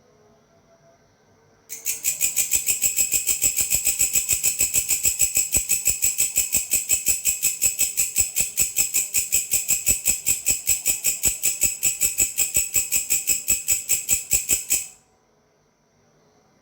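Grasshopper (belalang) calling, a high-pitched, rapid, even train of about five rasping pulses a second. It starts abruptly about two seconds in and stops suddenly shortly before the end.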